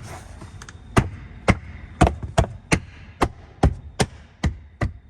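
Plastic interior trim of a Tesla Model 3/Y being pushed home by hand, giving about a dozen sharp clicks or knocks at roughly two or three a second as it seats in place.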